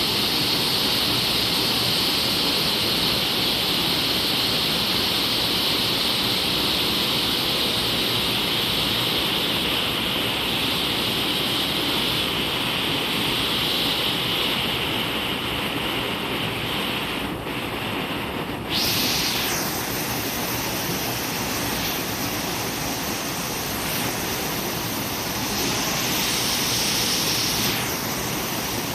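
Waterfall: water falling and splashing in a steady rush. The character of the sound changes abruptly about two-thirds of the way through.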